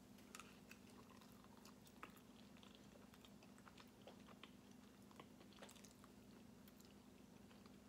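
Faint, close-up chewing and biting of a soft tortilla with enchilada, with small wet mouth clicks scattered throughout, over a steady low hum.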